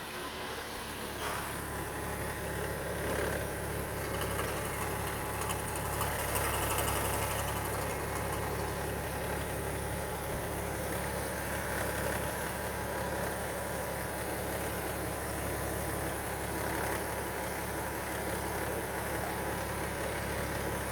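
BMW 3.0-litre M57 inline-six diesel (306D2) running steadily at idle with a diesel clatter, on an engine test.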